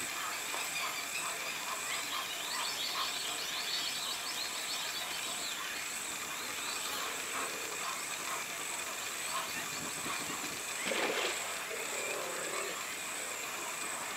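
Birds calling: many short chirps, with one louder call about eleven seconds in, over a steady high hiss.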